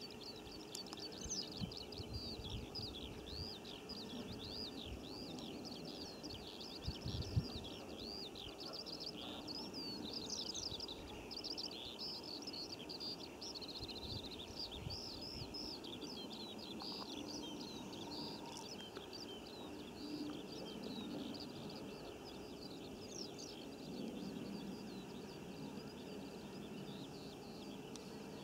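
A songbird singing a long, unbroken run of quick twittering chirps over a steady low rumble of outdoor background noise, with a brief bump about seven seconds in.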